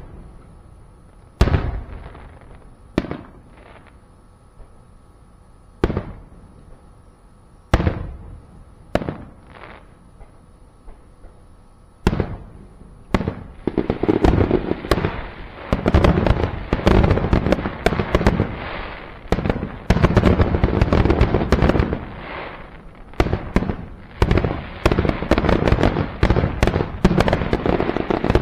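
Aerial firework shells bursting: a few separate booms, each trailing off, a second or more apart through the first half. From about halfway they turn into a rapid, near-continuous barrage of bangs, the finale at the end of the show.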